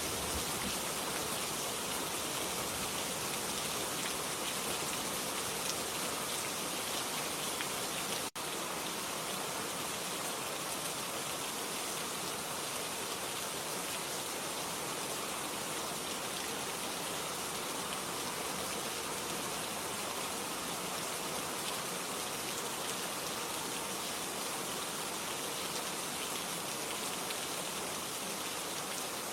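Steady rain falling, an even wash of dense patter, with a split-second dropout about eight seconds in.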